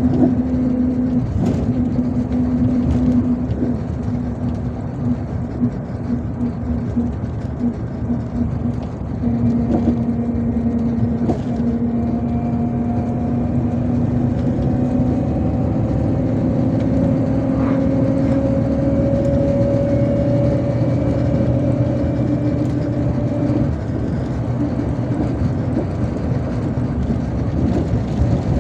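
Inside a MAZ-257 bus on the move: steady engine drone and road noise, with the engine tone climbing slowly in pitch as the bus gathers speed, and a few light clicks and rattles.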